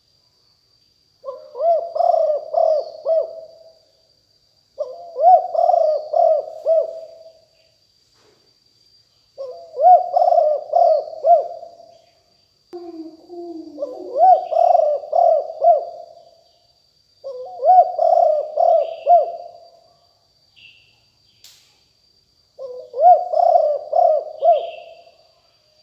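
Spotted dove cooing in repeated phrases of several notes each, about six phrases a second or two apart. A second, lower coo overlaps one phrase about halfway through. A faint steady high whine and a few small chirps from other birds are heard underneath.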